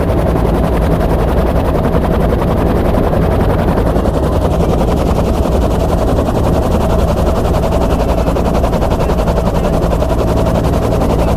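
Bell UH-1 Huey helicopter in flight, heard from aboard: the main rotor's steady, rapid chopping over a constant turbine and gearbox whine.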